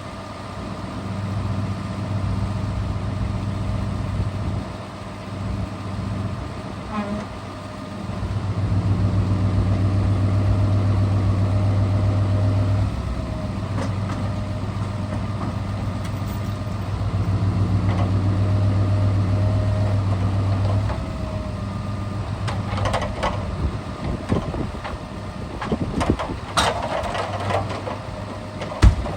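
A Scania R650 timber truck's V8 diesel engine running, its hum swelling louder twice for a few seconds as the engine works the timber crane. Scattered knocks and clatter come near the end, with one sharp knock just before it stops.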